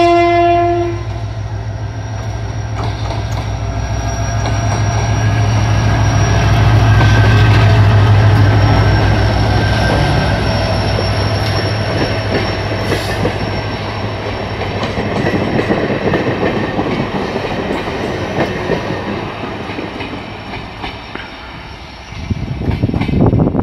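A diesel locomotive's horn cuts off about a second in, then the locomotive's engine drones loudly as it passes, followed by the clatter of its passenger coaches' wheels on the rails, fading as the train draws away. A rough low rumble comes near the end.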